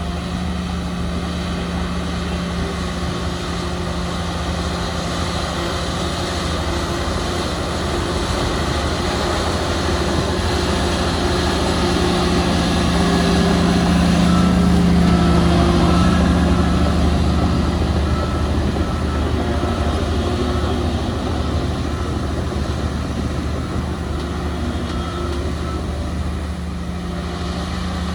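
Heavy diesel earthmoving machinery running steadily, swelling louder in the middle as it works closer, with a faint repeated beep like a reversing alarm through the middle stretch.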